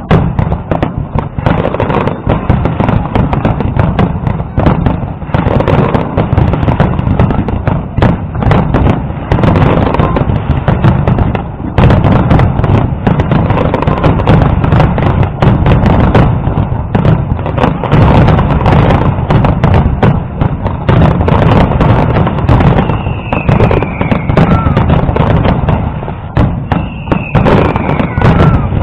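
Large fireworks display: many shells bursting in rapid, overlapping bangs over a steady low rumble, with crackle in between. Two short falling whistles come near the end.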